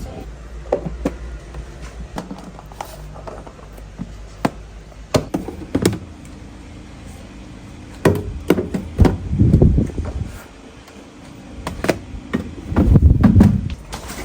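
Scattered knocks and clunks of household items being handled and set down, with two longer low rumbling stretches about two-thirds of the way in and near the end.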